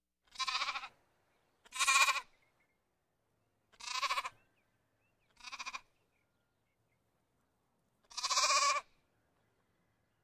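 Bleating farm animal: five separate bleats with silent gaps between them, each wavering in pitch, the last one the longest.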